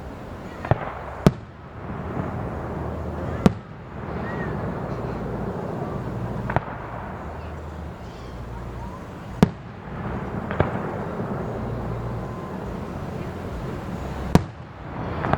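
Fireworks display with shells bursting: about seven sharp bangs at uneven intervals over a steady background rumble.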